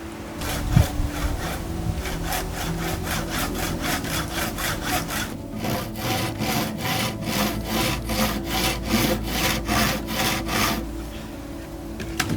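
Hand saw cutting through wood in steady back-and-forth strokes, about two a second, with a brief pause in the middle before a second run of strokes that stops near the end.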